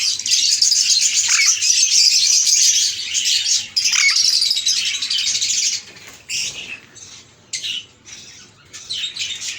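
A flock of caged birds chirping and chattering densely for about six seconds, then thinning to a few separate sharp calls.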